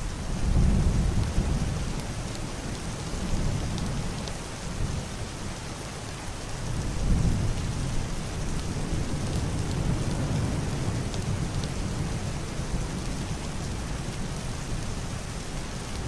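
Heavy rain hissing steadily on a roof and window glass, with a few sharp drop ticks. Low, muffled thunder rolls under it, swelling about half a second in and again around seven seconds.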